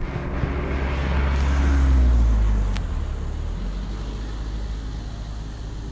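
A motor vehicle going by: a low rumble and broad road noise that swell to a peak about two seconds in, then fade away.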